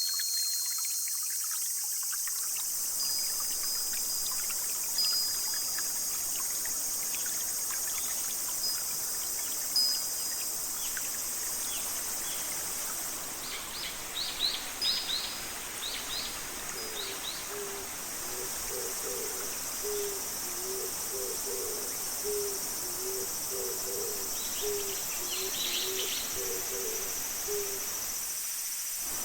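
Forest nature soundscape: an owl hooting in a long series of short, low notes through the second half, over a steady high-pitched insect chorus, with scattered songbird chirps.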